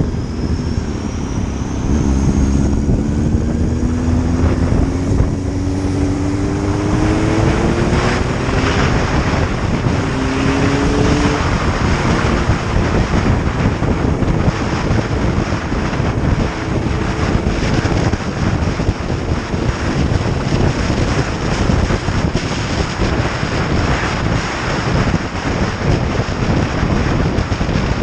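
Motorcycle engine pulling away and accelerating, its pitch rising, with a break about ten seconds in like a gear change. After that, steady wind noise on the microphone at road speed covers most of the engine.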